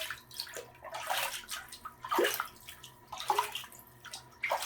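Bathwater sloshing and splashing in short, irregular bursts, about one a second, as a small dog moves in a warm half-body bath.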